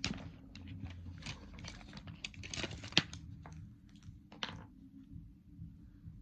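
Irregular light clicks, taps and scratchy rustles of small objects being handled, with one sharper click about three seconds in.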